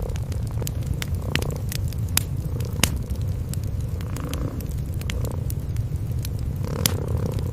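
Cats purring in a steady low rumble, over a wood fire crackling with scattered sharp pops.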